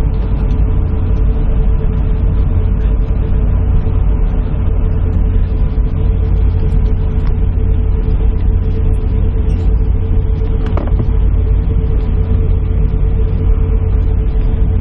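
Airliner cabin noise while the aircraft stands still with engines at idle: a steady low rumble with one constant whine above it.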